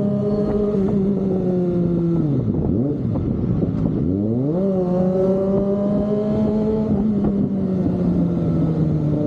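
Kawasaki ZX-25R's inline-four engine through an Austin Racing exhaust, running at steady revs. About two and a half seconds in the revs fall away sharply and stay low for a moment, then climb back about four and a half seconds in and hold.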